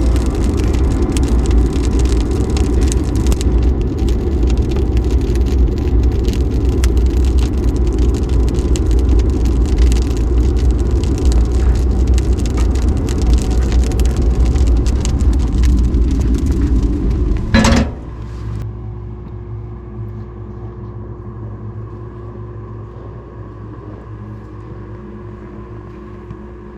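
John Deere X585 garden tractor engine running with a loud, steady low rumble. It stops abruptly with a sharp clunk about 18 seconds in, leaving a quieter hum that slowly fades.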